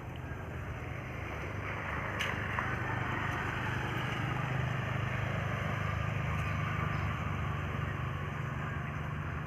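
Steady low engine drone under a haze of outdoor noise, growing slightly louder midway, with a single sharp click about two seconds in.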